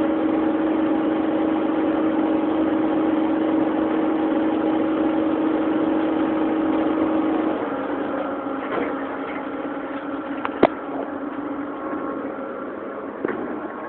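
CNC lathe running with a steady machine hum. About halfway through, the hum stops and the level drops, leaving quieter machine noise with a few sharp clicks, one louder than the rest.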